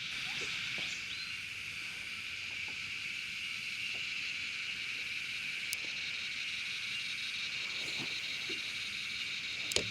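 Cicadas singing in a steady, unbroken high-pitched chorus, with a few faint clicks.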